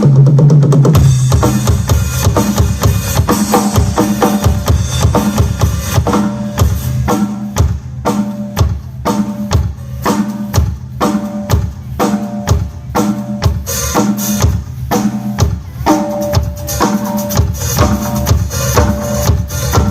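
Mapex Pro M maple drum kit played through a large PA sound system during a sound check, a fast steady beat with a heavy bass drum.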